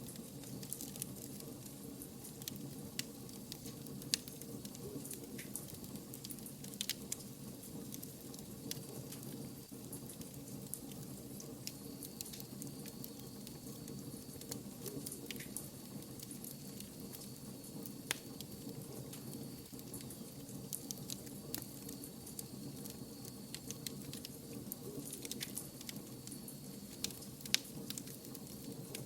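Wood fire burning, with frequent small crackles and pops over a steady low rush of flame. A faint thin high whistle runs through the middle for about ten seconds.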